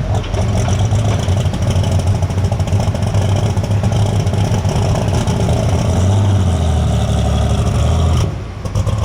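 Super stock pulling tractor's engine running loud and steady at high revs, with a brief drop in level near the end.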